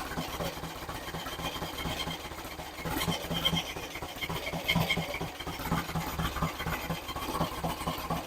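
Freshly rebuilt engine running steadily during its camshaft break-in, with an even, rapid beat.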